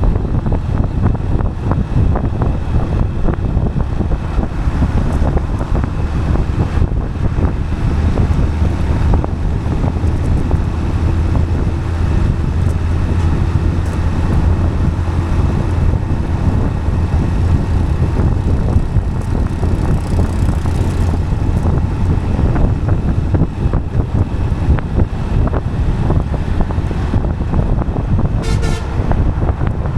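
Steady road noise of travel on asphalt, a continuous low drone with wind on the microphone, and a short horn toot near the end.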